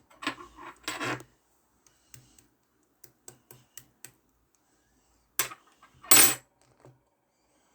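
Clear slime with trapped air bubbles being squeezed and pressed by hand: sticky crackles and small clicking pops in short bursts, with two louder squishes a little after the middle.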